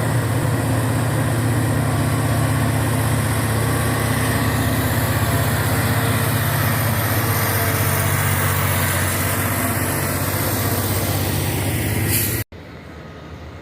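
Heavy diesel truck engine running loud and steady under load, with a faint high whine rising a few seconds in. It cuts off abruptly near the end, leaving much quieter background.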